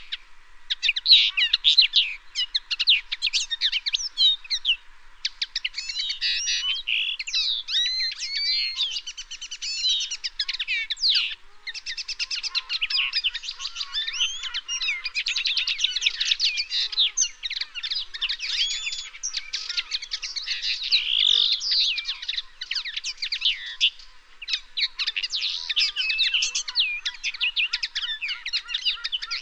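Wild songbirds chirping and singing in a dense, overlapping chorus of quick twitters and trills, with brief pauses about five and eleven seconds in.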